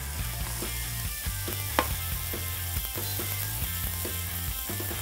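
Beef steak and grated broccoli sizzling in olive oil in two frying pans, with a few sharp clicks as the broccoli pan is tossed.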